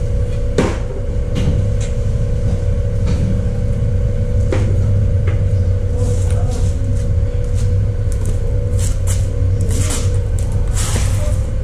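A steady low machine rumble with a constant hum, and scattered metallic clicks and clanks from tools being handled.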